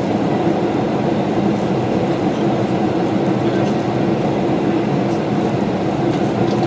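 Steady cabin drone of a Boeing 747-400 in flight, the rushing noise of engines and airflow heard from an economy seat, with a faint steady hum underneath.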